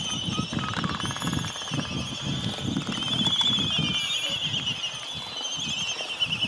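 Several birds singing together: high chirps and fast trills overlap, with a buzzy trill about half a second in that lasts over a second. An uneven low rumble runs underneath.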